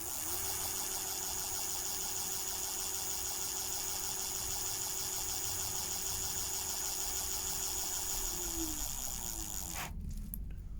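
DYU D3 electric bike's motor running with a steady whine and hiss, its pitch dropping as it slows about eight seconds in, then stopping abruptly. No warning bleep sounds, because its speaker has been removed.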